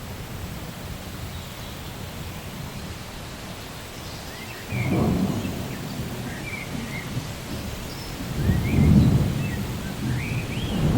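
Steady rain with thunder: a low rumble of thunder breaks in suddenly about halfway through and swells again near the end.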